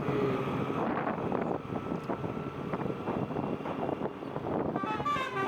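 Wind rushing over the microphone with the steady running of a motorcycle and road noise, riding in highway traffic.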